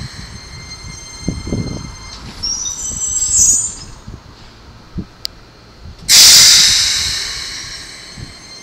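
Keikyu Line train running past, its wheels giving a loud high-pitched squeal that fades away. A quieter stretch with wavering high squeaks follows, then a second loud squeal starts suddenly about six seconds in and fades again.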